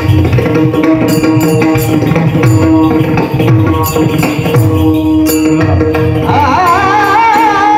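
Marathi devotional bhajan (abhang) music: a drum plays a fast rhythm under clashing hand cymbals and a steady held note. About six seconds in, a singing voice enters on a long, ornamented note that climbs in pitch.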